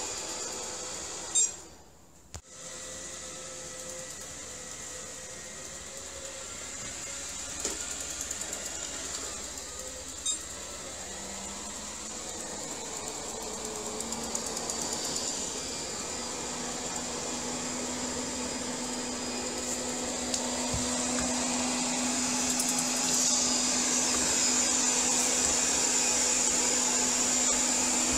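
ILIFE W90 cordless wet-dry vacuum mop running with a steady motor whine and hiss, briefly cutting out about two seconds in. A low steady hum joins about halfway, and the sound grows a little louder toward the end.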